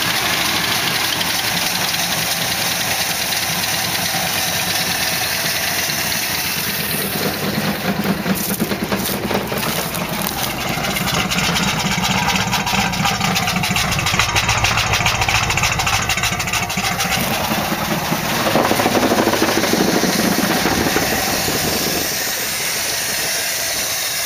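1956 Imperial's 354 Hemi V8 running on its first start after sitting for a year. The exhaust beat comes through plainly in the middle stretch, and the engine gets louder for a few seconds near the end before settling.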